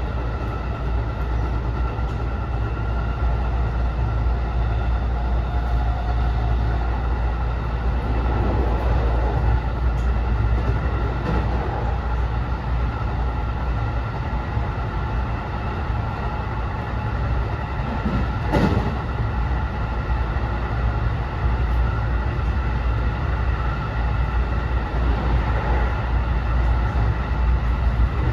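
JR West 207 series commuter train running at speed, heard inside trailer car SaHa 207-1005: steady low rumble of wheels on the rails, with one sharp knock about eighteen seconds in.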